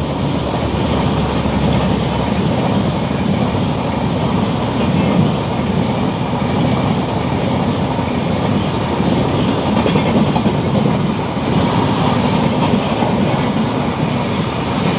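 Express train coaches rolling past at speed: a steady, loud rumble and clatter of wheels on the rails.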